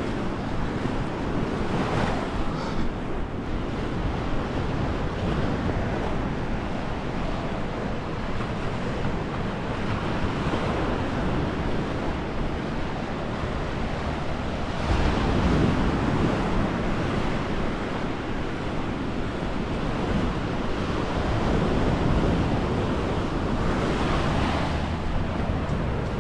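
Sea waves washing onto a beach, a continuous surf noise that swells louder about fifteen seconds in and again near the end, with wind buffeting the microphone.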